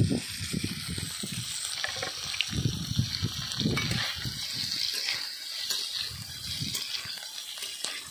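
Paneer cubes sizzling as they fry in hot oil in a kadhai, with a metal spatula scraping and knocking against the pan as they are turned.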